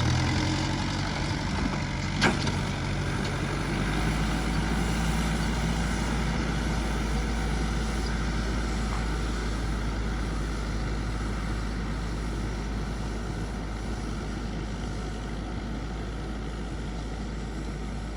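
VST mini tractor's engine running, its pitch settling in the first second and then holding steady, with one sharp click about two seconds in. It fades slightly toward the end.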